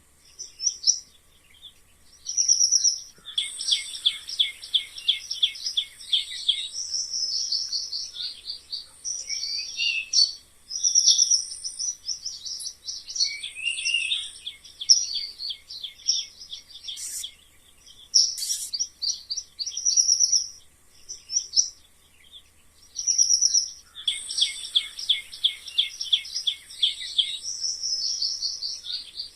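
Mice squeaking: high-pitched chirping squeaks, some in rapid chattering runs of several a second, coming in bursts of a few seconds with short pauses between.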